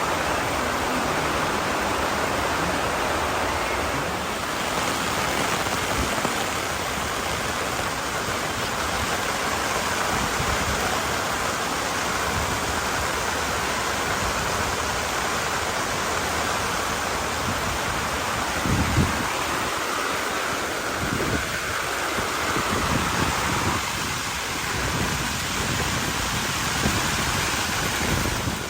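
Steady rushing noise of water, even and unbroken, with a brief dull thump about two-thirds of the way in.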